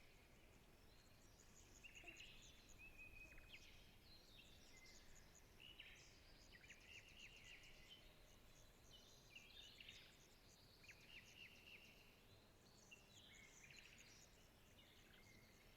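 Faint forest birdsong: several birds chirping and trilling in short overlapping phrases, over a soft steady hiss of background ambience.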